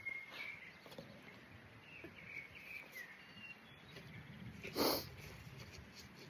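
Faint bird chirps, a few short gliding notes, followed just before five seconds in by a single short, sharp sniff.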